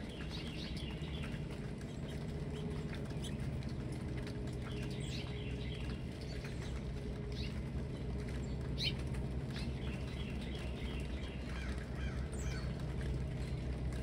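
Songbirds calling: several sharp down-slurred calls and quick series of high chips, over a steady low rumble.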